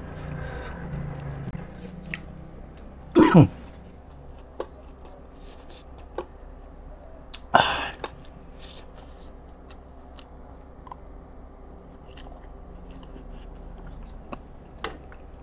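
Close-miked chewing of balut, the fertilized duck egg, with scattered small mouth clicks and two short, louder sounds about three and eight seconds in.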